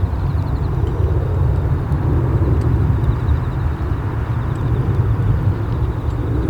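Boeing 737-800's CFM56 jet engines at takeoff power, a steady deep rumble.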